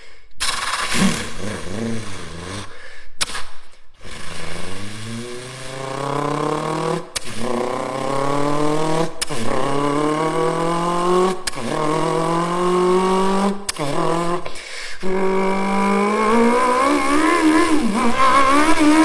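Motorcycle engine accelerating hard through the gears: a couple of quick revs, then the pitch climbs steadily in each gear and drops abruptly at each upshift, about five shifts roughly two seconds apart.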